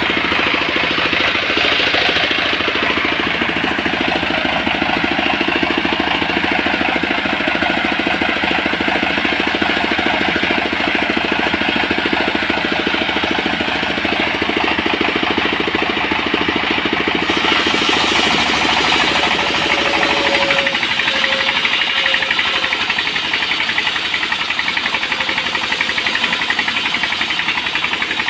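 Engine-driven portable sawmill running steadily, a continuous engine-and-saw noise. The sound turns brighter about two-thirds of the way through.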